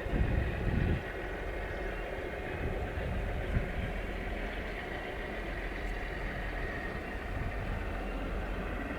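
Diesel locomotive engine running steadily, with a louder low rumble in the first second and a brief sharp knock about three and a half seconds in.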